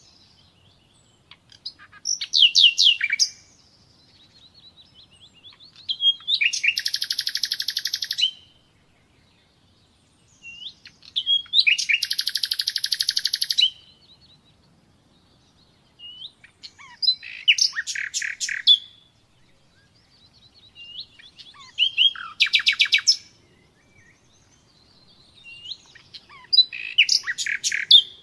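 Common nightingale singing: separate phrases a second or two long, each a rapid run of repeated high notes, with short pauses between. Two of the phrases are long, even rattling trills.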